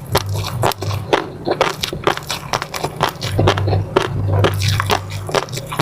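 Close-miked eating sounds: a person chewing soft food, with many irregular wet clicks and smacks of the mouth.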